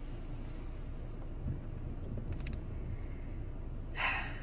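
Steady low rumble inside a car cabin with the engine idling. A few faint clicks come a little past halfway, and a short breathy hiss near the end.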